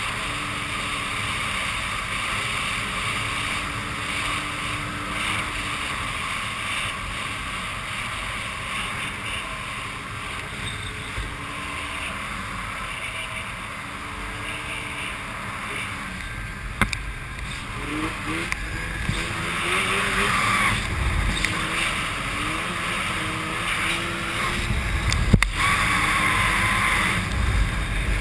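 Snowmobile engine running under way, its pitch rising and falling as the throttle changes, over a steady rush of wind and snow. It grows louder in the second half, with a couple of sharp knocks.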